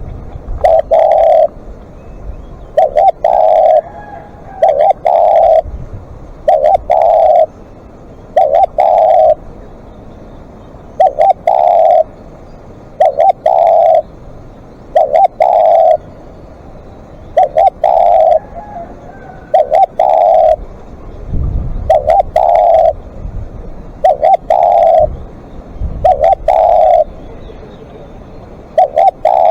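Spotted dove cooing over and over, loud and close: a short phrase of two or three coos about every two seconds.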